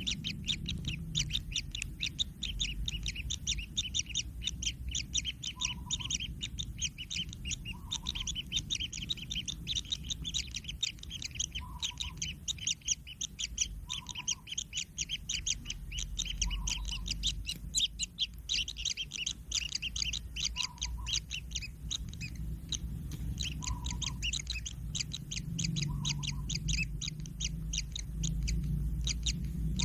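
Kingfisher chicks giving rapid, continuous chirping begging calls. A soft lower note comes every two to three seconds, over a low rumble.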